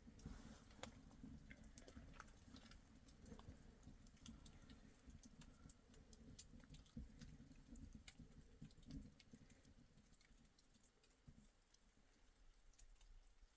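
Near silence, with a faint low rumble and scattered soft clicks and ticks. The rumble fades out near the end.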